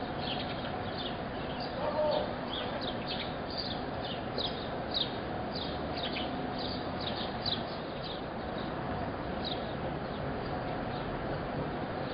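Small birds chirping, short falling chirps several a second that thin out and stop before the end, over a steady background hum of street ambience. A brief louder sound comes about two seconds in.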